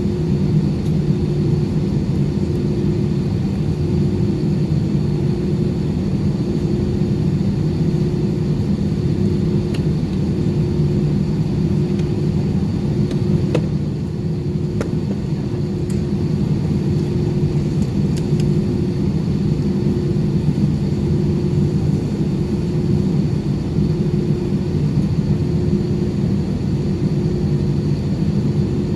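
Steady jet-engine rumble of an Airbus A320 heard inside the passenger cabin, with a constant low hum and a faint high whine that hold the same pitch throughout. A few faint clicks come around the middle.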